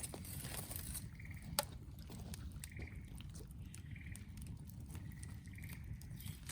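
Wood fire crackling with scattered sharp pops, the loudest about one and a half seconds in, over a low steady rumble. A short trilled chirp repeats every second or so in the background.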